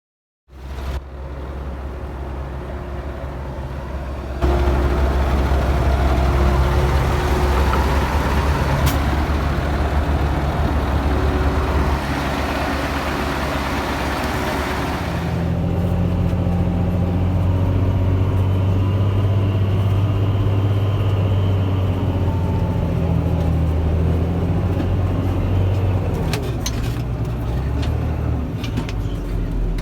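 Heavy diesel engines of a Claas Jaguar 690 forage harvester and a Fendt Favorit 916 Vario tractor running steadily under load while chopping maize. The sound gets louder about four seconds in, the engine note changes about halfway through, and a few sharp clicks come near the end.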